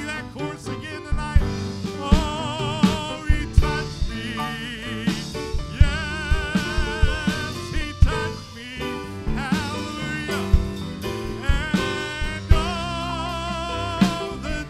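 Live gospel music: voices singing long notes with vibrato over instrumental accompaniment with a regular beat.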